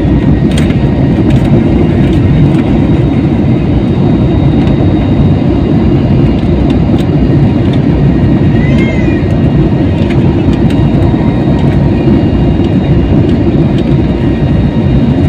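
Airliner cabin noise at high power: the engines and rushing air give a loud, steady, low rumble that holds even throughout.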